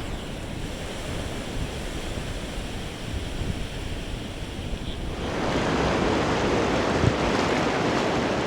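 Ocean surf washing onto the beach, with wind rumbling on the microphone. About five seconds in, the hiss of the surf grows louder and brighter.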